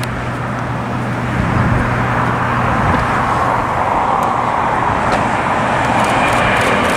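Jet engine noise of a Boeing 737 climbing out just after takeoff: a steady rushing roar that swells slightly about a second and a half in.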